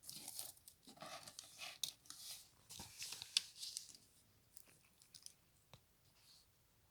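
Rustling, crinkling handling noise for about four seconds, then a few faint scattered clicks.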